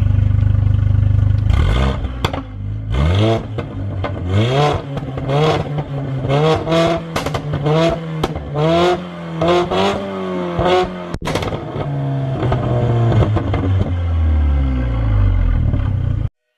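Mercedes-AMG A45's turbocharged four-cylinder, with a decat downpipe and stage 2 tune, idling and then revved in a quick series of about ten blips. The exhaust pops and crackles as the revs drop, and the engine settles back to idle near the end.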